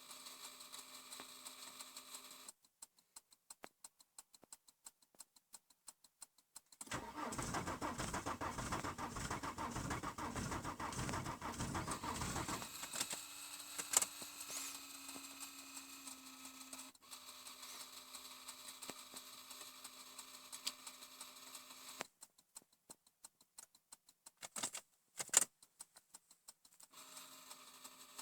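Starter motor cranking the cold five-cylinder 2.5 TDI diesel of a 1998 Volvo V70 for about six seconds after a night below −10 °C, then stopping abruptly. A fainter steady hum follows, and two sharp clicks come near the end.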